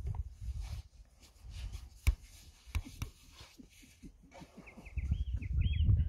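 A small bird singing a quick run of short chirps over the last second and a half, over a low, gusty rumbling noise, with a few sharp knocks about two and three seconds in.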